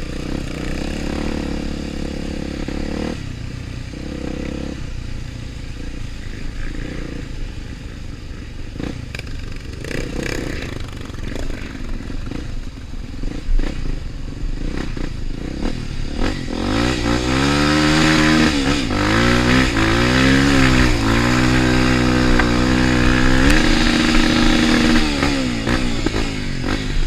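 Trail motorcycle engine running, then revved hard up and down again and again for several seconds past the halfway point, the engine note getting louder.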